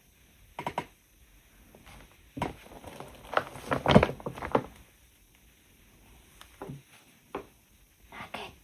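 A scatter of short knocks and thumps with quiet gaps between, most of them bunched together a little after the start, like things being handled or set down.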